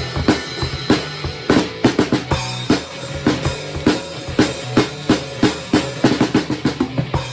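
Drum kit played fast along with a heavy metal song: rapid snare and bass drum hits and fills over the song's sustained low guitar and bass.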